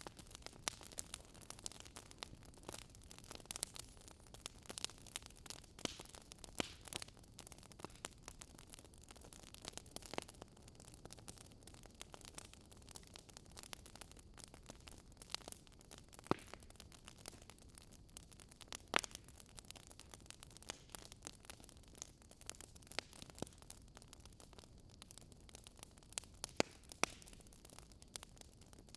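Fire crackling: irregular small snaps and pops over a soft hiss, with a few louder pops, about 16, 19 and 27 seconds in.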